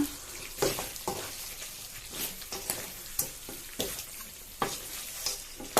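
Fried chicken wings being stirred and tossed in a sizzling sauce in a pan, with a utensil knocking and scraping against the pan at irregular moments.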